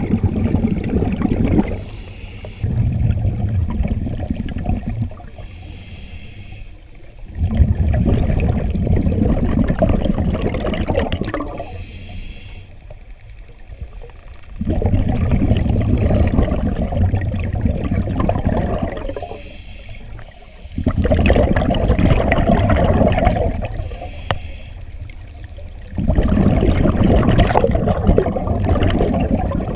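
Scuba diver breathing underwater through a regulator: exhaled bubbles rush out for three to four seconds at a time, about every five to seven seconds, with a short hissing inhale in each gap.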